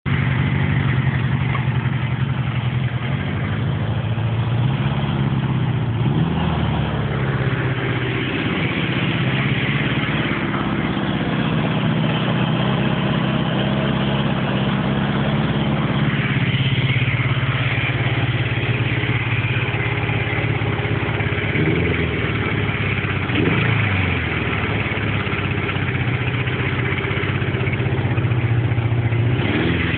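1979 Suzuki GS550's air-cooled inline-four engine idling steadily, with a few short throttle blips whose pitch rises and falls back: around six and eight seconds in, twice a little past twenty seconds, and once near the end.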